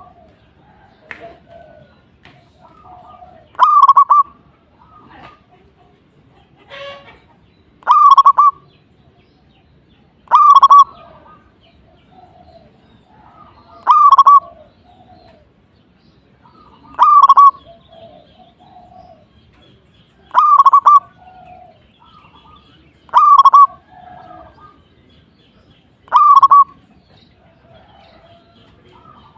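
Zebra dove (perkutut) cooing song: a short, loud phrase of rapid cooing notes repeated about every three seconds, eight times. Fainter, lower cooing sounds between the phrases.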